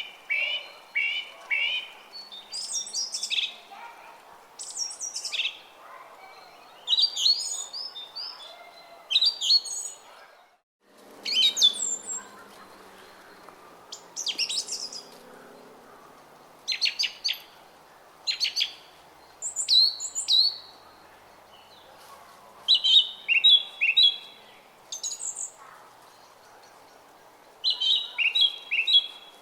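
Small songbirds singing short, sharp chirping phrases every second or two over the faint steady murmur of a flowing brook. Everything cuts out briefly just before eleven seconds in.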